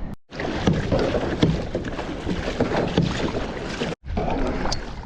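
Kayak on the ocean: water splashing and sloshing against the hull with wind on the microphone, broken by two brief cuts, one near the start and one about four seconds in.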